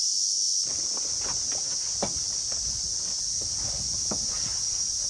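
Steady high-pitched chorus of insects in the forest. About half a second in, irregular scuffs and knocks, like footsteps, start beneath it.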